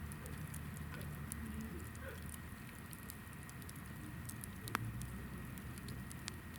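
Hinoki firewood burning in a campfire, crackling with scattered small pops and a sharper pop about three quarters of the way through, over a low steady rumble of the flames.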